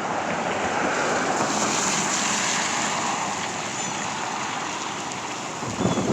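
Strong gusting wind rushing through trees and blowing dry leaves about; the gust swells in the first few seconds and then eases. Near the end the wind buffets the microphone with low thumps.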